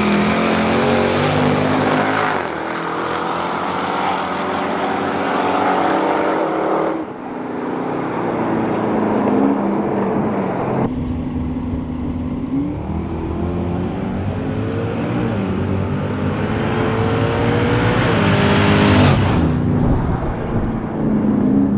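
Street-race cars accelerating hard, engines rising in pitch again and again as they climb through the gears. The sound changes abruptly about seven and eleven seconds in.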